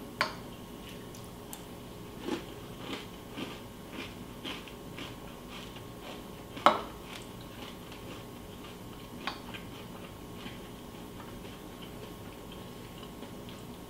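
A person eating cereal: crunchy chewing clicks about twice a second, then a sharper, louder click about seven seconds in and another a little after nine seconds, over a faint steady hum.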